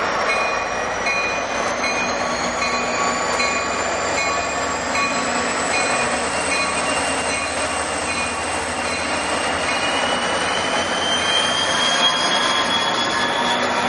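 An NJ Transit commuter train running on the rails, with steady rail noise and high whines that rise slowly in pitch as it picks up speed. For the first half a bell-like tone repeats about twice a second.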